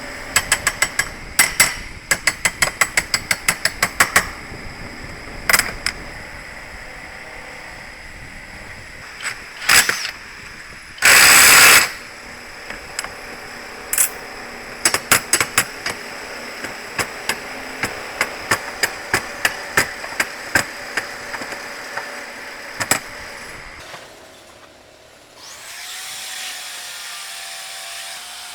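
Workshop tool work: runs of rapid sharp clicks or taps over a steady machine hum, with a loud rushing burst about a second long near the middle. A steadier whirring takes over near the end.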